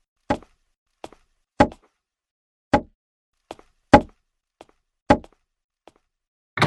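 Footsteps: a steady walking rhythm of single steps about every 0.6 s, alternating louder and softer, in dead silence between. A heavier thud with a short ringing tail comes at the very end.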